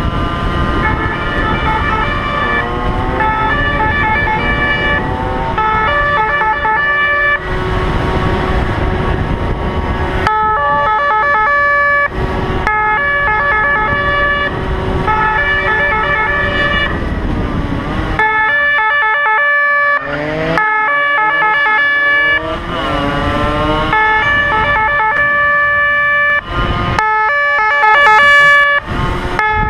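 Police siren sounding in a two-tone pattern, held notes switching pitch about once a second with some gliding notes between. Under it runs vehicle engine and wind rumble, heavier for the first ten seconds or so.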